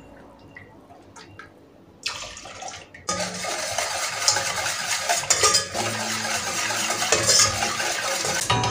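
Water running from a kitchen tap, starting softly about two seconds in and gushing louder about a second later.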